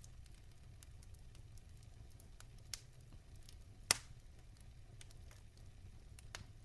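Wood fire burning in a fireplace: a low steady rumble with scattered small crackles and one sharp pop from the logs about four seconds in.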